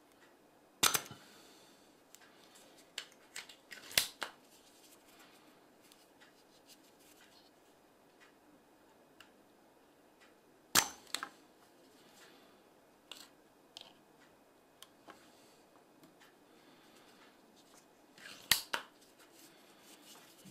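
Scattered sharp clicks and knocks from handling tools and parts on a workbench: four loud ones, about 1, 4, 11 and 18 seconds in, with lighter ticks between.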